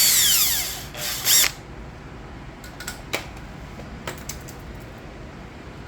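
Cordless drill-driver spinning to back out a cover screw, its whine winding down in pitch about half a second in, then a second short burst. After that come scattered light clicks of the plastic cover and parts being handled.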